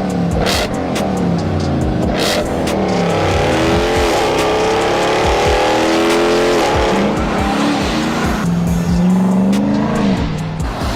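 Dodge Ram 1500 TRX's supercharged 6.2-litre V8 running through a Capristo valved stainless-steel exhaust, accelerating hard. The pitch climbs and then drops back at each upshift, several times over.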